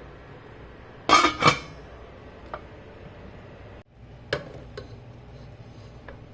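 Metal cookware and utensils clinking: two loud clatters close together about a second in, then a few lighter clinks over a low steady hum.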